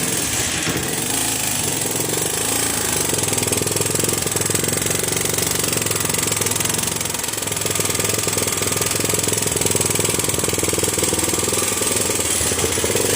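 Benelli motorcycle engine idling steadily with a rapid, rattling beat.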